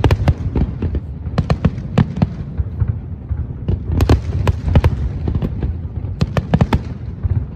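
Aerial fireworks bursting: rapid irregular sharp bangs and crackles, thickest about one and a half to two and a half seconds in and again around four to five seconds, over a continuous low rumble.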